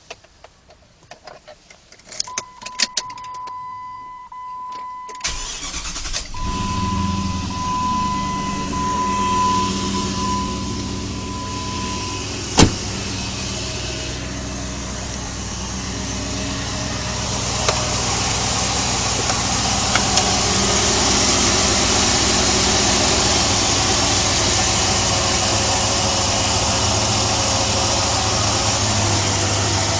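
Jeep Grand Cherokee WJ's 4.7-litre HO V8 cold-started: a few clicks and a steady electronic warning tone, then the starter cranks about five seconds in and the engine catches and settles into a steady idle. The idle carries the cold-start noise that the owner calls piston slap, normal for the HO engine when cold.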